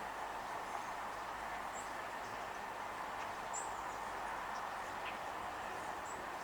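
Steady outdoor background noise with a few short, high bird chirps, one every couple of seconds.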